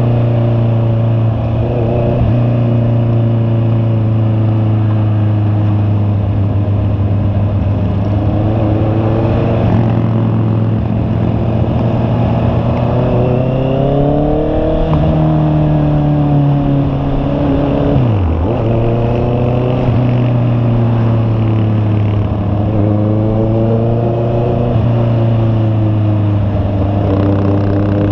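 Honda CB650R's inline-four engine running under way, its note holding steady, then climbing about halfway through, dropping sharply about two-thirds in and building again.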